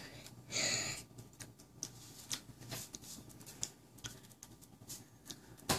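Faint, irregular wet clicks and smacks of a child chewing a mouthful of banana, with a short breathy hiss about half a second in.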